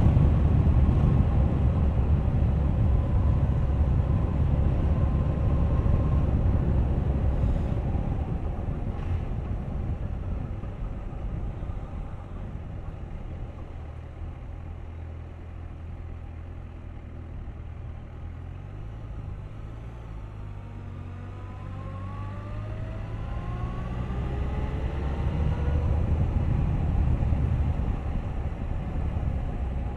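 Suzuki GSX1250FA motorcycle's inline-four engine and wind rush on the move. It eases off and quietens through the middle, then the engine note rises again as the bike accelerates near the end.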